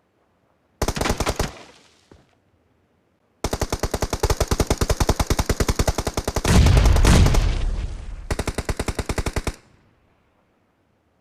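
Automatic gunfire in a shooter video game: a short burst, then after a pause a long string of rapid shots, with a louder, deeper boom mixed in partway through.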